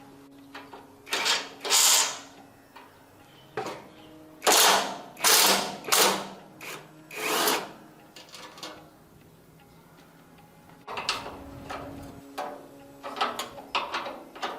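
A handheld power tool run in a string of short bursts, each about half a second to a second long, loudest in the first half, with a faint steady hum underneath.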